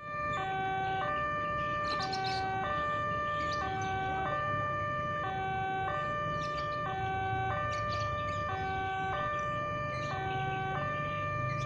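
Railway level crossing warning signal: an electronic two-tone alarm that alternates steadily between a higher and a lower chord about every two-thirds of a second, over a low steady rumble.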